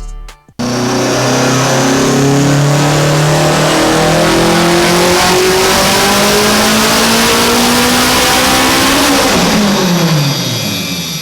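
Subaru STI turbocharged flat-four making a dyno pull under full load, its pitch climbing steadily for about eight seconds, then falling quickly as the throttle is lifted and the revs drop near the end.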